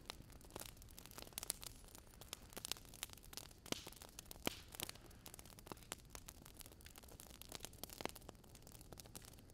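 Faint, irregular crackling and popping of a small driftwood campfire, over a soft steady hiss.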